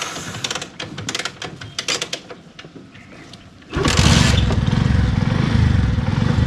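A series of clicks and light knocks, then a small motorcycle engine starts a little past halfway through and settles into a steady idle.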